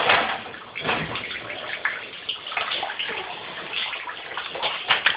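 Water pouring down through a leaking ceiling and splashing below, a steady rush broken by irregular louder splashes.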